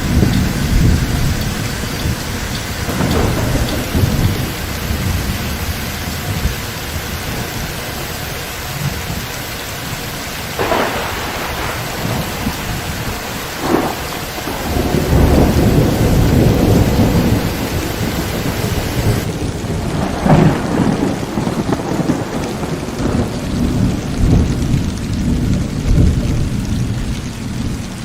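Heavy rain falling steadily in a thunderstorm, with rolling thunder rumbling low under it and a few sharper thunder cracks, about eleven, fourteen and twenty seconds in.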